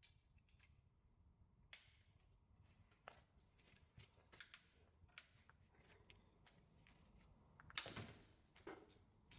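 Near silence broken by a few faint, scattered clicks and knocks, the loudest pair near the end.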